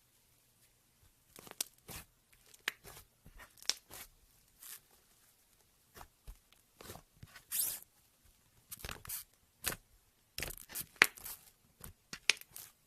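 Slime being handled and squeezed by hand, giving irregular clusters of short popping and crackling clicks, with the loudest burst near the end.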